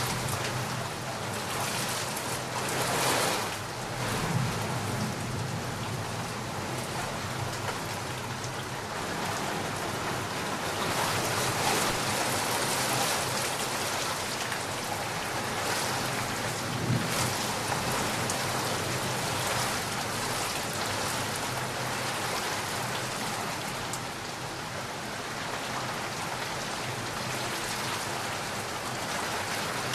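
Steady heavy rain falling, with low rumbles of thunder about four seconds in and again about halfway through.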